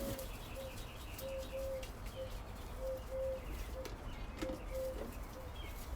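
Birds calling: a short, low, steady note repeated over and over, with faint higher chirps between.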